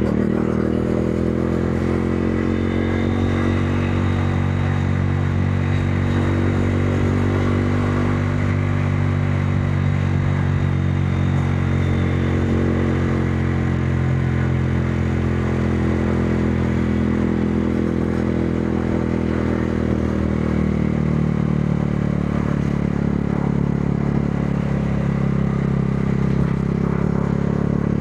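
Modenas Dominar 400's single-cylinder engine running under way at a steady pace, its pitch holding nearly even with only slight rises and dips.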